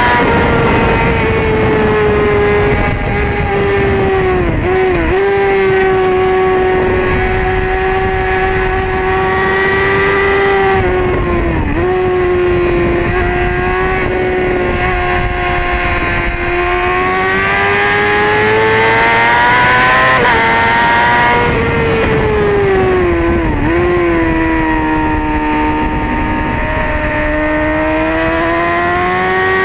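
2008 Honda CBR600RR's inline-four engine running hard at high revs on track, its note rising and falling through the corners with several brief dips in pitch, over steady wind rush.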